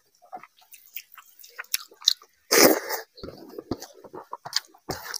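Chewing a mouthful of rice and fish curry: wet mouth smacks and clicks, with one louder noisy burst lasting about half a second around the middle.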